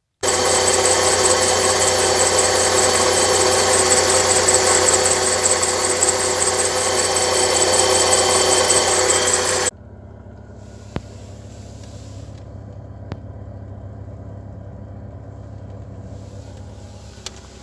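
Chery Amulet engine running, heard from inside the cabin, with a dry rubbing sound like metal on dry metal and a slight whistle. It is loud and steady for about ten seconds, then drops suddenly to a much quieter steady hum. The owner traces the noise to the accessory drive, suspecting the tensioner or idler pulley bearings, which have play, or the air-conditioning compressor clutch.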